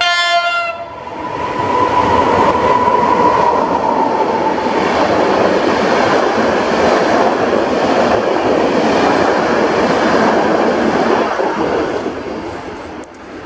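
PKP Intercity EP09 electric locomotive sounding a short horn blast as it approaches, then the loud rush and clatter of its train of Intercity coaches passing close by. The noise fades near the end.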